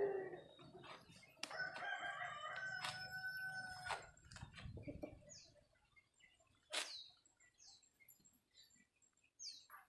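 A rooster crowing once, a long call held from about one and a half to four seconds in. Later come a few short, high, falling bird chirps and a sharp click about seven seconds in.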